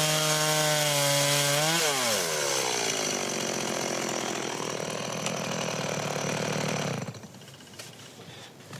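Chainsaw engine running steadily, then its pitch rises briefly and drops as it bogs under load. It runs on at the lower pitch until it stops suddenly near the end.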